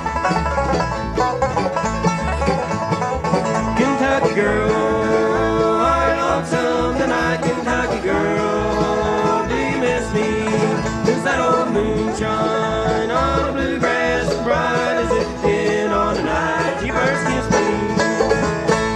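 Bluegrass band instrumental break, with banjo, mandolin, guitar and upright bass playing together. There are quick picked runs and some notes that slide in pitch. The tune heads into its closing bars.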